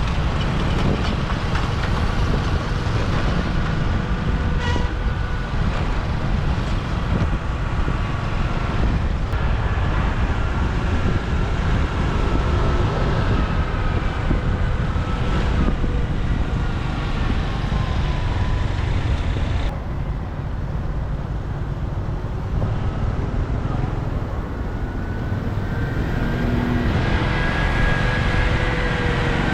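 Motorbike riding in city traffic: a steady engine note over a heavy low rumble of road and wind noise, the engine's pitch drifting slowly up and down with speed.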